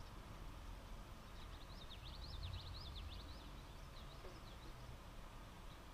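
A songbird singing a fast warbling phrase of quick up-and-down high notes that starts about a second in and lasts about two seconds, followed by a shorter phrase, over a faint low rumble.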